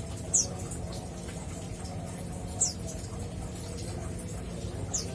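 Male mountain white-eye calling in a cage: three short, high, downward-sliding chips, about two seconds apart, over a steady low background hum.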